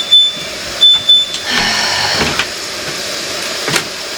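Jars and food containers knocking and clinking against refrigerator shelves as they are handled: a few sharp knocks, some with a short glassy ring, and a brief rustle, over a steady hiss.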